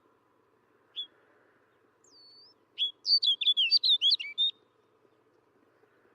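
Snow bunting singing: a short call note about a second in, a faint whistle, then a quick warbled phrase of rapid, varied notes lasting about a second and a half.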